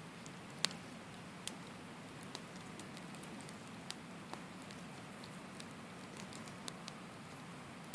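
Wood campfire burning: a steady soft hiss with scattered sharp crackles and pops at irregular intervals, the loudest pop about half a second in.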